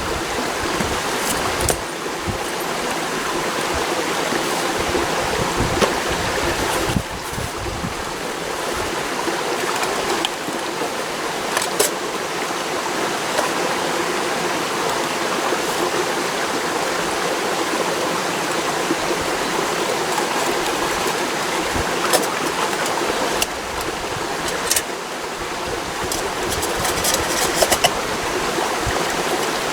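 Mountain stream rushing steadily, with a few light clicks and knocks scattered through it.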